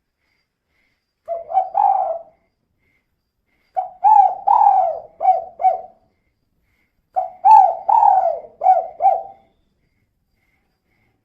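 Female spotted dove (tekukur) cooing: three phrases of short, low coo notes, one about a second in, a longer one about four seconds in and another about seven seconds in.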